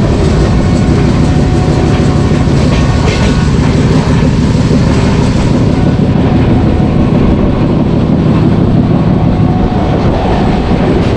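Passenger train coach running at speed, heard from its open doorway: a loud, steady rumble of wheels on the rails.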